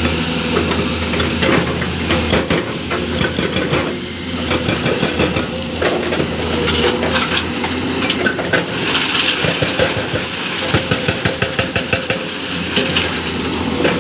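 Excavator diesel engine running steadily, with stretches of rapid metallic hammering, several blows a second, typical of a hydraulic breaker working rock.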